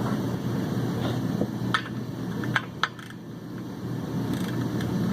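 Metal hand tools clinking as sockets and a torque wrench are handled, with a few sharp metallic clinks near the middle over a steady low hum.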